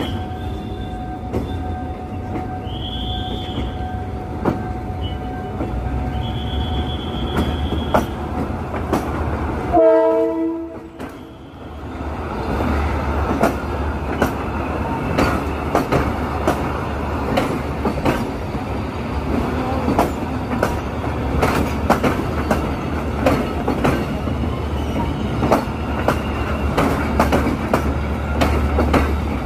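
Passenger train approaching with intermittent high-pitched squealing for the first several seconds and a short horn blast about ten seconds in. Its coaches then pass close by with a low rumble and fast, irregular clicking of wheels over the rail joints.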